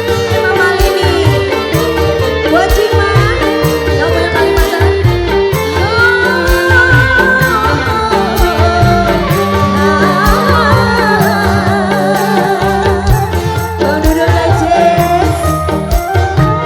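Live dangdut band music: a busy hand-drum rhythm under a bending melody line, with no words in this passage.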